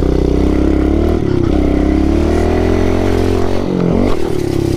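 Small single-cylinder four-stroke pit bike engine accelerating for a run-up to a jump. The revs climb, drop sharply about a second in at a shift, climb again, and fall off briefly near the end before picking up.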